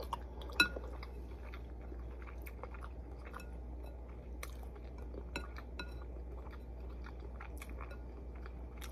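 A person chewing ramen noodles with egg, with scattered light clicks over a steady low hum.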